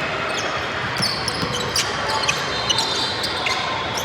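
Basketball game noise in a gym: a ball bouncing on the hardwood floor in a few sharp knocks, over a steady hall murmur, with brief high squeaks.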